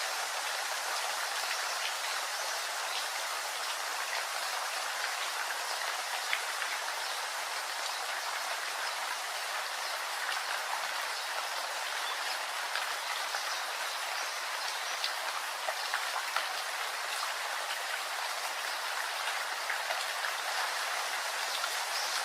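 Steady rain falling, a dense even hiss with many individual drops ticking on surfaces.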